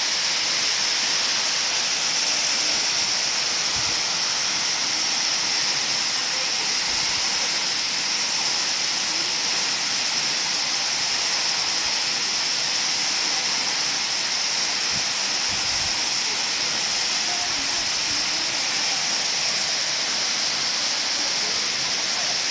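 Waterfall: a steady rush of falling water that holds at a constant level throughout.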